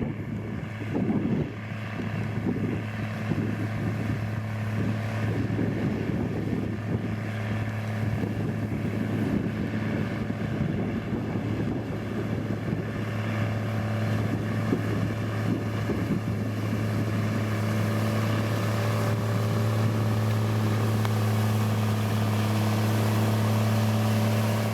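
Diesel engine of heavy road-building machinery running steadily with a low, even hum that grows slightly louder about halfway through.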